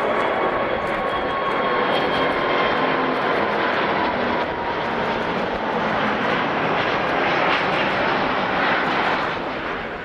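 Airbus A380 jet engines running in a loud, steady roar with high whining tones that slowly drop in pitch, fading out at the end.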